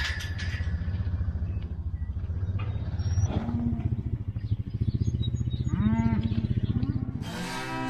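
An engine idling with a steady low, fast-pulsing rumble, with two short calf bawls about three and six seconds in.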